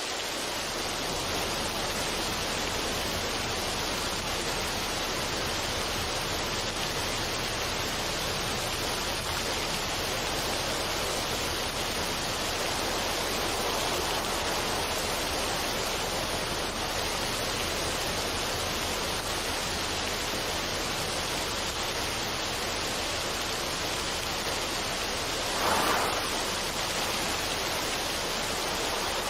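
A steady, even rushing noise with no tones or rhythm, like running water or pink noise, swelling briefly near the end.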